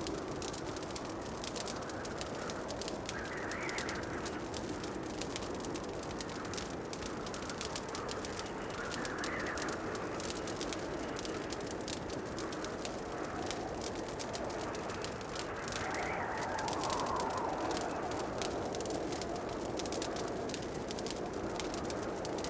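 Wood fire crackling in a fireplace: a dense stream of small pops and ticks over a steady low rush, with a few soft swells every several seconds.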